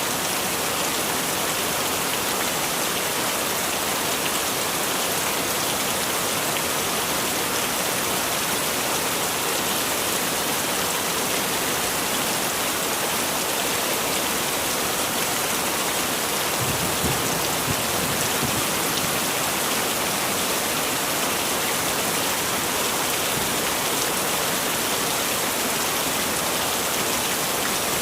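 Heavy rain falling steadily, a dense even hiss of rain on surfaces. A brief low rumble rises under it a little past halfway through.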